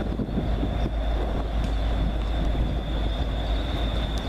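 Approaching diesel commuter train: a steady low rumble of engine and wheels, with a thin, steady high-pitched whine above it.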